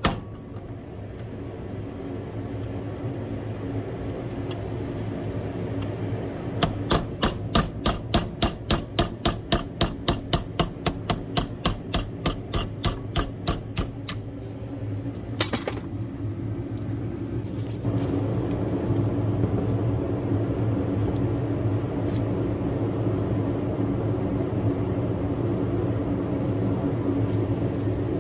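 Hammer blows on steel tractor parts: a rapid run of about four sharp metallic strikes a second for around seven seconds, then one harder, ringing hit. A steady machine hum runs underneath and grows louder after the hit.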